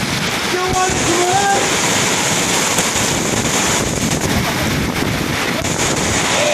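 Very heavy rain pouring down, a loud steady hiss.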